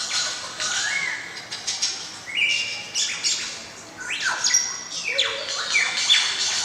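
Birds calling: a busy run of short chirps and sweeping, rising and falling calls, several overlapping.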